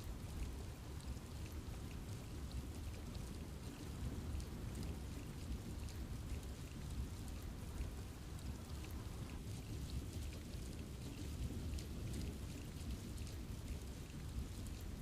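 Steady rain falling on forest foliage, a continuous hiss with many small drop ticks.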